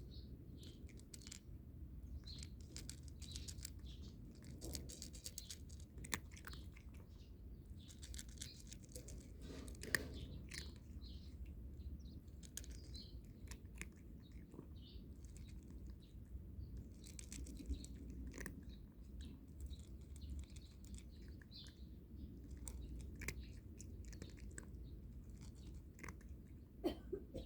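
A cat crunching dry kibble, in irregular crisp crunches, with birds chirping in the background.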